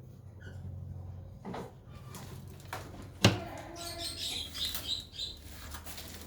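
Caged small birds chirping in quick high twitters, bunched a second or two after a single sharp knock about three seconds in.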